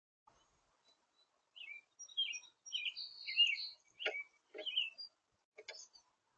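Songbird chirping in a quick run of short, varied notes, with three short knocks in the second half.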